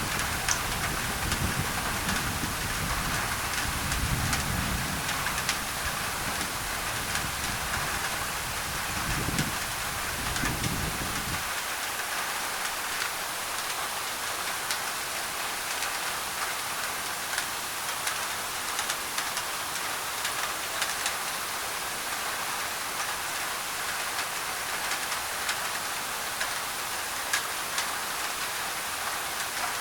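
Rain on a thin tin roof, a steady hiss dotted with many small drop ticks, blended with a white-noise layer. A low rumble of thunder runs under it for the first eleven seconds or so, then cuts off.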